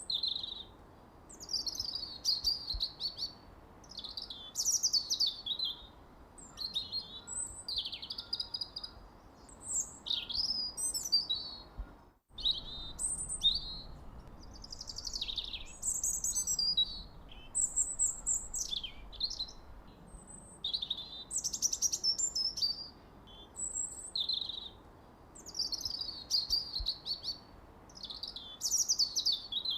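Birdsong: a songbird sings a steady string of quick, varied, high chirping phrases, mostly falling sweeps and short trills, with brief pauses between them. A split-second dropout to silence comes about twelve seconds in.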